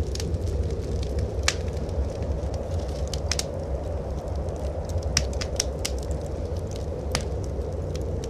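Wood fire in a fireplace crackling, with scattered sharp pops and a quick run of three about five seconds in, over a steady low rumble of blizzard wind.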